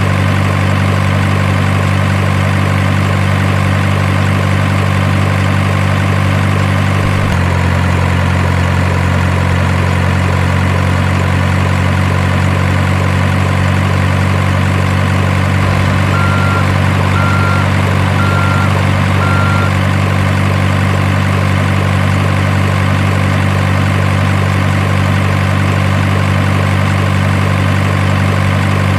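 Simulated diesel truck engine idle sound: a steady low drone that shifts slightly in pitch about seven seconds in. Four short faint beeps come a little past halfway.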